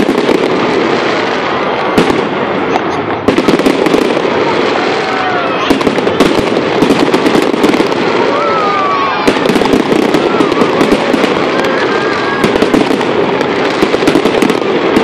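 Fireworks display: a loud, continuous barrage of bursting shells, a dense crackle of many sharp pops with no let-up.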